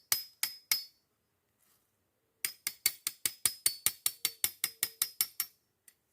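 A knife blade struck repeatedly against a steel machete to throw sparks onto a wick for lighting a fire: a few sharp metallic clicks, then after a pause a fast, even run of about five strikes a second, each with a brief ring.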